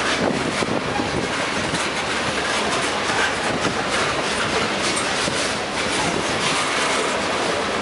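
A freight train of tank cars rolling past. The steel wheels clatter steadily along the rails, with a dense running rumble and irregular clacks.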